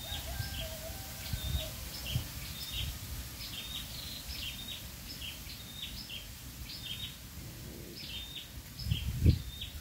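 A small bird chirping over and over in short, high notes, over a low rumble of wind or handling on the microphone, with a dull knock near the end.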